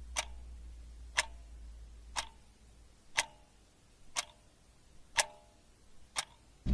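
Clock-like ticking: one sharp tick about every second, each with a short faint ring. A faint low hum underneath fades out about halfway.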